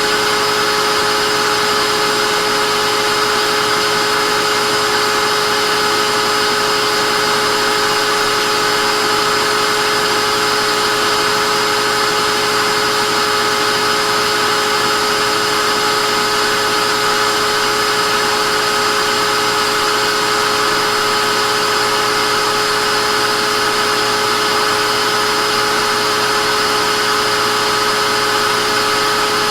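Vacuum cleaner motor running steadily: a constant whine over a rushing hiss of air, never changing in pitch or level.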